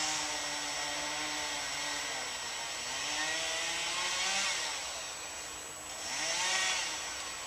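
A small engine revving up and falling back about three times, with a hiss that swells at each rev.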